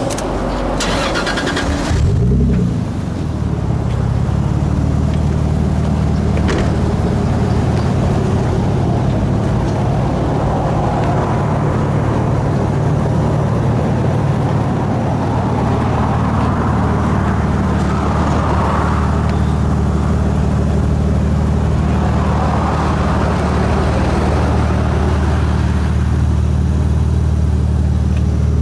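Toyota Supra JZA80's twin-turbo 2JZ-GTE straight-six, breathing through an HKS Silent Hi-Power muffler, cranked on the starter and catching about two seconds in with a brief rev, then idling steadily.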